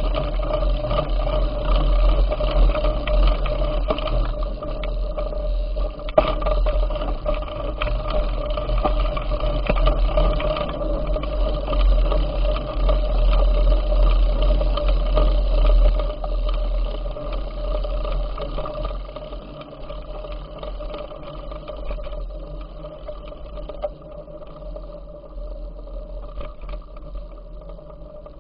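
Wind buffeting the microphone during a bicycle ride, a heavy uneven rumble with a steady whine above it; it eases off about two-thirds of the way through.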